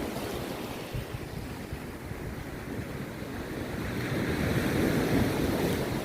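Rough sea surf breaking on a beach, a steady wash of waves. It eases off early, then the next wave builds and swells louder near the end.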